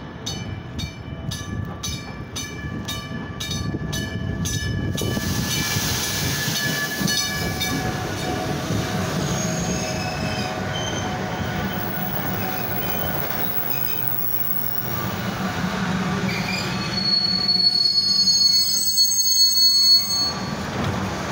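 Nippon Sharyo electric commuter railcars pulling into a station, with a bell ringing about twice a second for the first few seconds. Then comes the steady running noise of the wheels and motors, and a high brake and wheel squeal near the end as the train comes to a stop.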